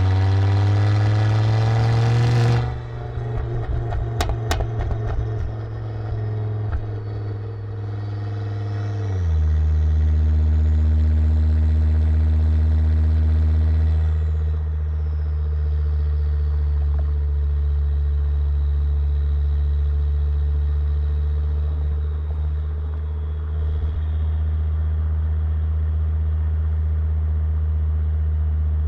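2006 Volvo S60R's turbocharged five-cylinder through a custom Eurosport exhaust with 3-inch downpipe: revving up, then dropping off sharply with a spell of pops and crackles, then settling about nine seconds in to a steady, deep idle.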